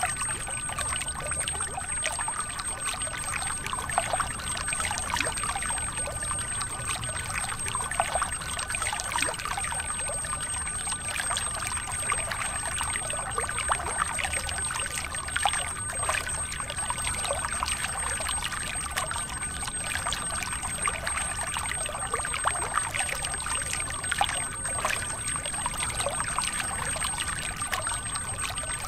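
Stream of water pouring and splashing from a miniature toy hand-pump spout into a small pond. Over it is a steady high whine from the tiny battery-powered water pump's motor.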